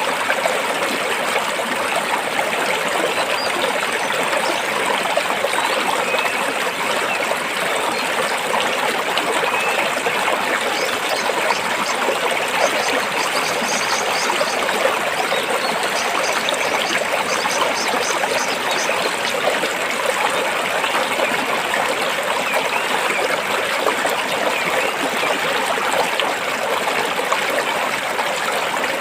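Stream water running and trickling over rocks, a steady, even babble with no pauses.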